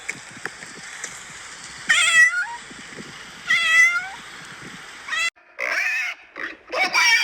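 A cat meowing three times, each meow a pitched call that bends in pitch. About five seconds in, it cuts to a different animal making noisier, broken calls.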